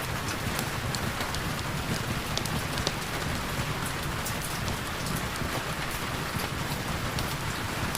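Heavy rain falling steadily, with a constant hiss and many individual drops ticking sharply on a nearby surface.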